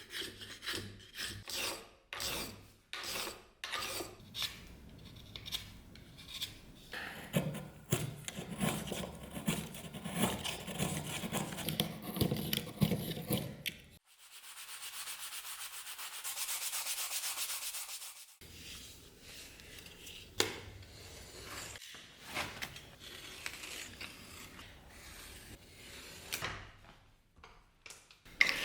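Wood being rubbed, filed and sanded by hand in repeated back-and-forth strokes. A steady high hiss runs for about four seconds in the middle.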